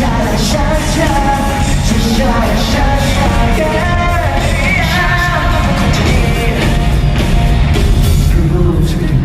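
Live pop-rock band playing loudly, with a singer's voice over drums, bass and guitars.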